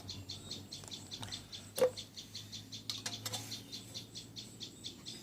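Rapid, even high chirping, about six chirps a second, from a small animal in the background. Nearly two seconds in comes one sharp clink with a brief ring, with fainter clicks about a second later, as the lantern is handled.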